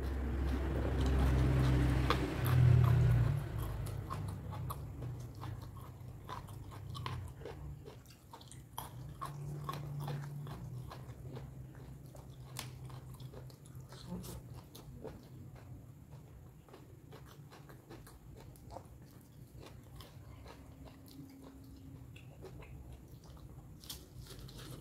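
A person chewing and biting crunchy food close to the microphone, with many small crisp clicks of crunching. A louder low rumble comes in the first few seconds, peaking about two and a half seconds in.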